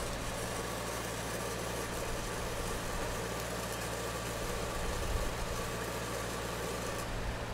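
Stick welding with 6010 rod: a steady arc hiss over the constant low hum of a running welding machine. The hiss cuts off near the end.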